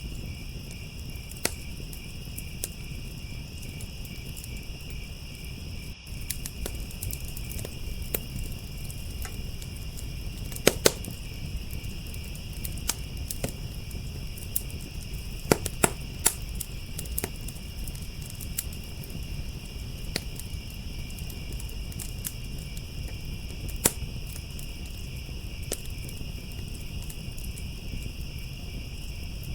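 Wood fire crackling, with irregular sharp pops, a few much louder than the rest, over a steady chorus of crickets trilling.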